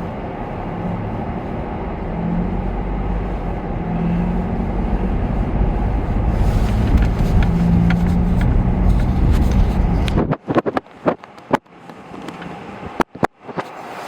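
Steady road and engine noise of a car driving on snow-covered roads, growing a little louder a few seconds in. About ten seconds in, the sound drops out and comes back several times with sharp clicks.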